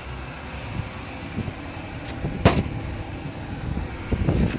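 Car engine and road rumble, steady and low, with a single sharp knock about halfway through.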